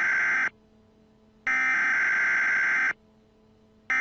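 Electronic broadcast-interruption tone, a steady buzzy beep sounding in long pulses of about a second and a half with roughly a second of silence between them.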